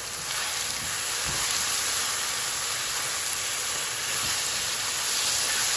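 Sliced onions and tomato pieces sizzling steadily in hot oil in a frying pan while being stirred with a spatula.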